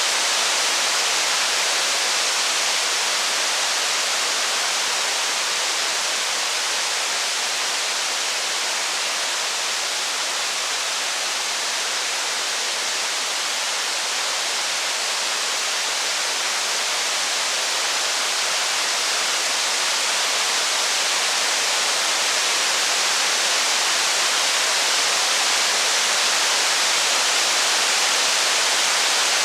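Steady rain, an even hiss with no distinct drops, thunder or crackles standing out.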